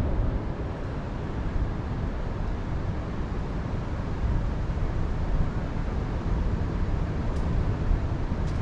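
Wind gusting over the microphone: a steady rushing noise with a heavy low rumble that swells and eases slightly.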